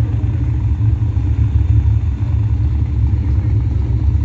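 Loud, steady low rumble of drag-racing pickup truck engines at the strip.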